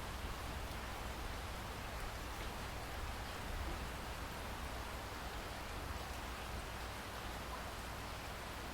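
Steady rainfall, an even hiss with scattered raindrop ticks and a low rumble underneath.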